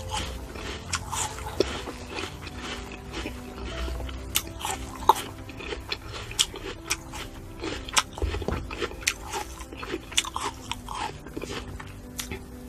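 Close-miked eating sounds of fruit being chewed and bitten: frequent crisp clicks and crunches with wet mouth noises throughout, over faint background music.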